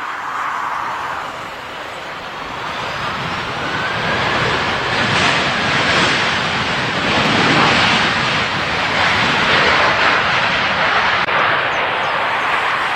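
Jet airliner passing low overhead on its landing approach: the engine noise builds over the first few seconds, stays loud through the middle and eases slightly near the end, with a faint engine whine shifting in pitch.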